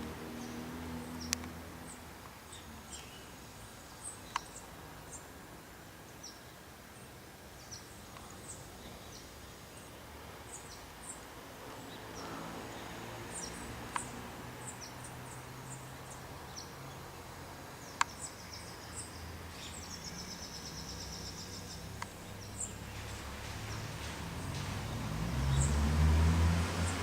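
Birds chirping in short high calls, scattered throughout, with a few sharp clicks over a faint low drone. A louder low rumble builds over the last few seconds.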